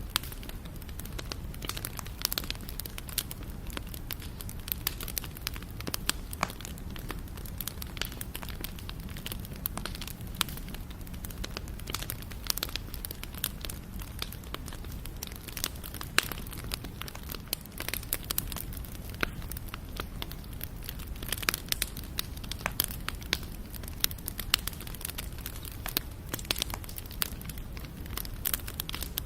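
Wood bonfire burning, with frequent irregular sharp crackles and pops over a steady low rumble of the flames.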